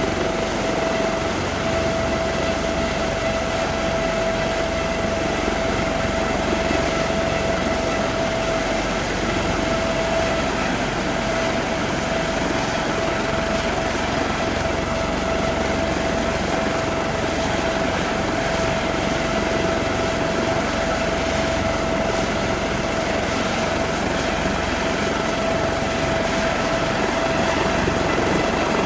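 Helicopter running steadily, its engine giving a constant high whine over a noisy wash of rotor and engine sound.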